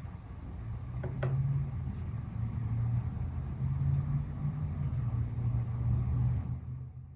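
Low, steady rumble that swells for about six seconds and then fades, with a single sharp click about a second in.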